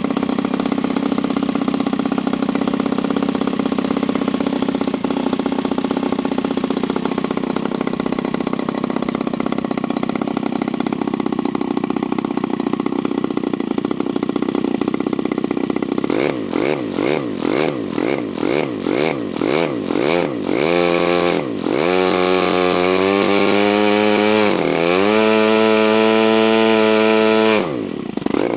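SV 26cc two-stroke gasoline model-aircraft engine, turning a 17x8 propeller, running at a steady low speed. About halfway through, the throttle is blipped up and down about twice a second, then held open at high speed with a few brief drops.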